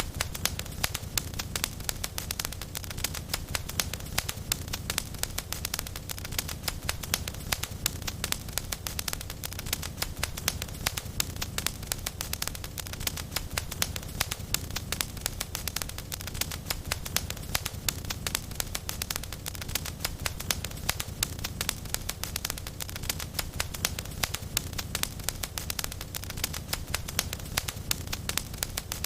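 Wood fire crackling in a fireplace: a dense, steady run of small pops and snaps over a low rumble of the flames.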